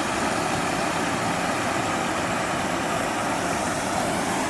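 Floodwater rushing, a steady loud hiss-like rush with no breaks.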